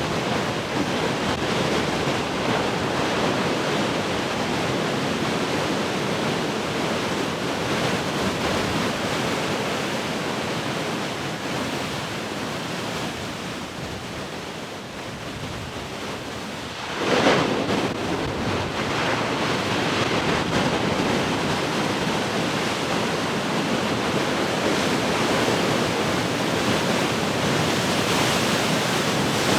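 Large ocean waves breaking on the shore in a continuous rushing wash, with one louder wave crash just past halfway.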